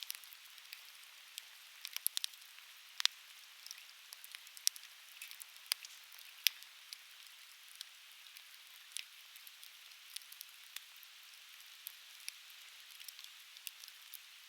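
Conifer firewood burning, crackling with frequent sharp, irregular pops over a steady hiss.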